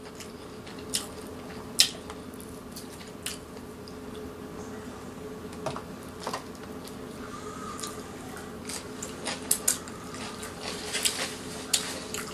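Close-miked eating: wet chewing and mouth smacks with scattered sharp clicks of a utensil against a plate or container, over a faint steady hum.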